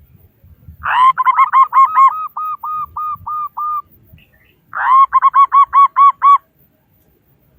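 Zebra dove (perkutut) cooing: two song phrases, each opening with a rough rising note and followed by a fast run of short, evenly spaced coos. The first phrase trails off into softer, slower notes.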